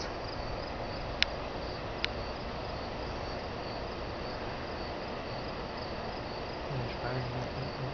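Crickets chirping in a steady, even high-pitched pulse, with two sharp clicks about a second and two seconds in.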